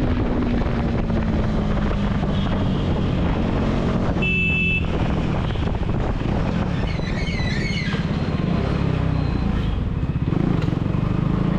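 KTM 390 Duke's single-cylinder engine running through an aftermarket dual exhaust while riding, its note holding fairly steady. A vehicle horn honks briefly about four seconds in, and a warbling high tone follows a few seconds later.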